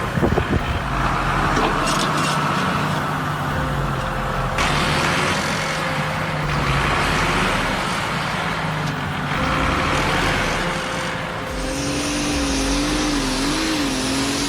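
Heavy off-road vehicles' engines running, from a Belarus tractor and a Ural truck, the engine pitch rising and falling as the throttle changes, with a wavering higher whine near the end.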